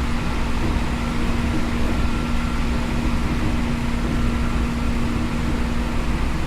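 Running sound of a Seibu New 2000 series field-chopper electric train, heard from inside the car: a steady rumble of wheels on rail with a low hum that fades out near the end.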